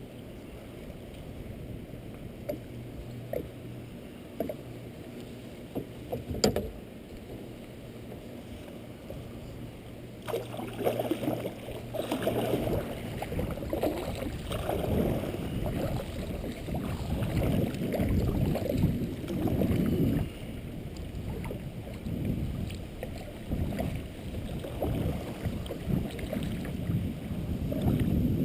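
Kayak paddle strokes swishing and splashing in the water, irregular and about once a second, starting about ten seconds in and growing louder. Before that, a steady low background with a few light knocks, one sharper about six seconds in.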